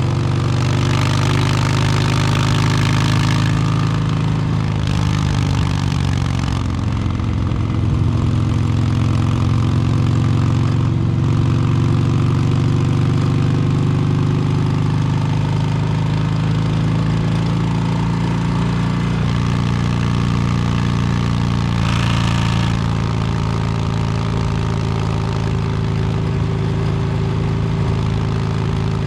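Exhaust of a 2022 Harley-Davidson Low Rider S V-twin through an S&S Superstreet 2-into-1 exhaust, running under way as the bike is ridden, its engine note stepping in pitch several times as throttle and revs change. A few brief bursts of rushing noise sit over it.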